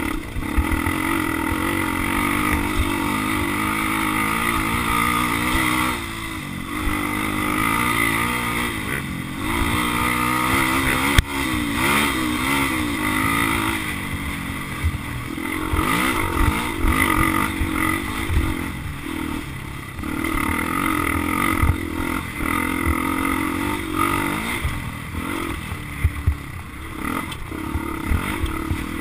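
Motocross dirt bike engine revving up and down as it is ridden, its pitch rising and falling again and again through the throttle and gear changes, with rough low rumbling underneath.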